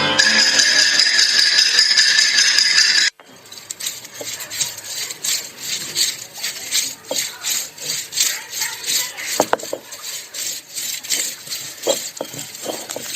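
Pre-recorded sound effects for a mime: a loud, steady hissing noise with two held tones that cuts off abruptly about three seconds in, then a rhythmic rasping, about three strokes a second, like sawing or filing, with a few sharp clicks.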